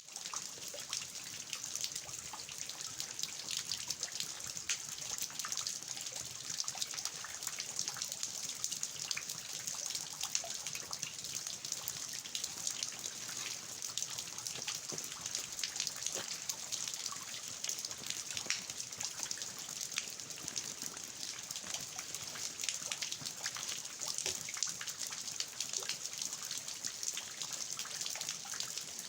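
Steady rain falling on a garden, a dense hiss full of many small drop impacts, with water dripping and trickling off the eaves of a traditional house.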